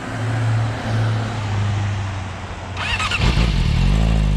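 Motorcycle engine sound: a steady engine note for about three seconds, then a deeper engine note comes in, rises briefly and settles into a steady run.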